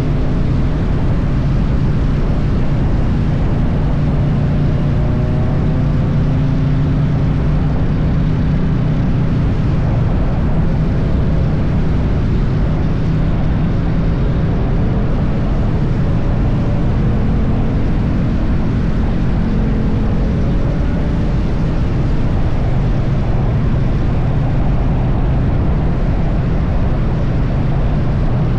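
Triumph Bonneville T100's parallel-twin engine running steadily at cruising speed, a low drone with small rises and falls in pitch, over a steady rush of wind and road noise.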